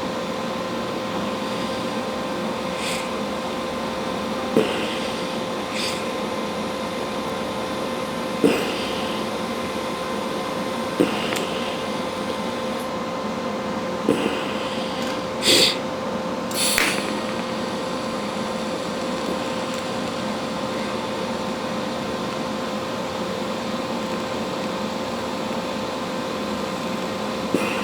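Electric arc welding: a steady sizzling arc with a faint hum, broken by a few sharp pops and clicks in the middle stretch, as the weld puddle is pushed along to smooth and blend the bead.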